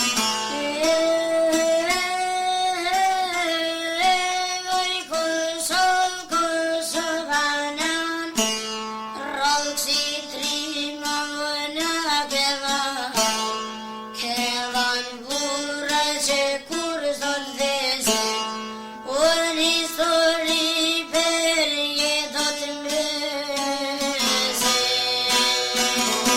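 Albanian folk song: a singing voice carries a wavering melody over a plucked string instrument picked in quick, even strokes.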